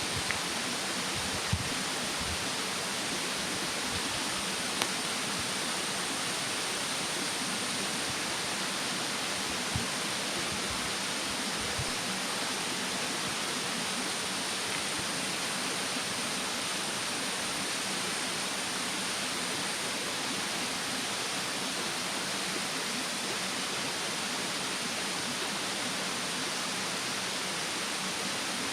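Steady rushing of a mountain stream with a thin, steady high insect drone over it. A wood fire in a fire stand gives a few short crackles and pops in the first dozen seconds.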